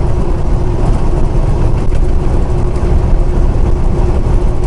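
Steady engine and road rumble inside a semi-truck's cab while it cruises on the highway, with a constant low hum over it.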